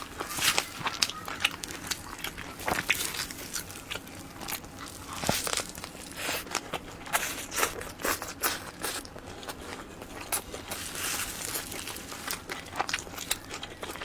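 Close-miked eating of soft cream-filled sponge cake rolls: chewing with many quick, irregular wet mouth clicks.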